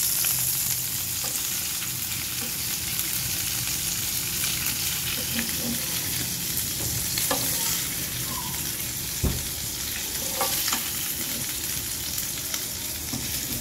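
Prawns sizzling as they fry in hot oil in a pan, a steady hiss with a few light knocks, the strongest about nine seconds in.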